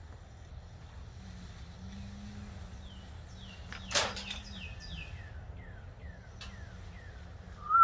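Small wild birds chirping, a run of short falling chirps repeated over a few seconds, over a steady low background. A single sharp click about four seconds in is the loudest sound, and a louder whistled note begins right at the end.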